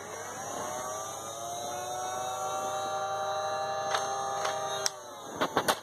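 Electric flywheel motors of a Nerf blaster spinning up with a rising whine, then running at a steady pitch, with a few clicks near the end before the whine cuts off about five seconds in. The blaster will not shoot.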